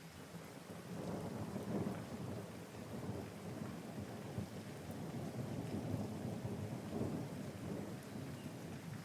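Thunder rumbling low and long over steady rain, building about a second in and rolling on.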